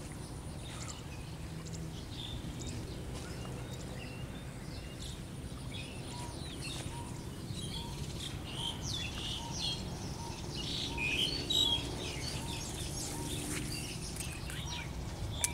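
Birds chirping and calling in short, overlapping calls over a steady low rumble, busiest in the middle. From about six seconds in, a faint short note repeats about twice a second.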